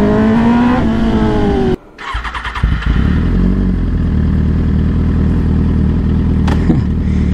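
Kawasaki ZX-10R's inline-four on an Arrow exhaust with a decat pipe, revving up and back down, then cutting off abruptly. About two seconds in, the starter cranks in quick pulses, the engine catches, and it settles into a loud, steady idle.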